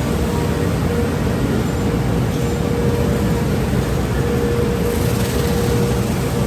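Automatic car wash tunnel equipment running: a steady rush of machinery and spray with a faint steady hum.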